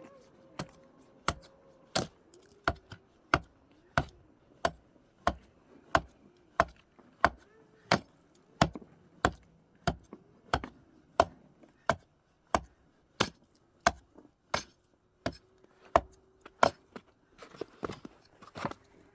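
Steady, regular chopping: sharp single blows about one and a half a second, kept up with an even rhythm.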